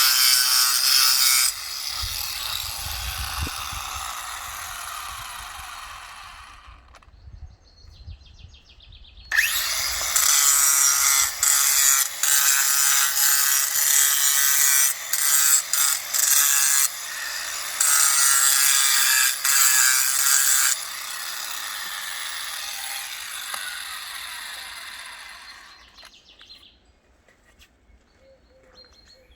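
A power tool working stone, running hard with a loud, high-pitched noise for the first second or so and again from about nine to twenty-one seconds with brief breaks. After each stretch it winds down slowly, as if spinning down off the cut.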